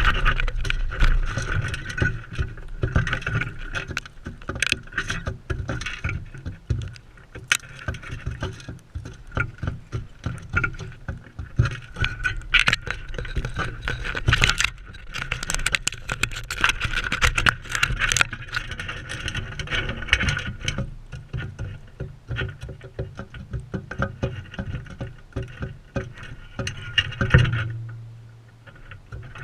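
Crimson rosellas feeding right at a close-up camera: rapid, irregular clicks, taps and knocks of beaks and feet on the feeder and camera, over a steady low rumble. There is one louder knock near the end.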